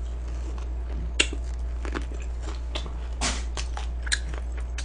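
A person chewing crispy fried chicken, with a scatter of short crunches and mouth clicks.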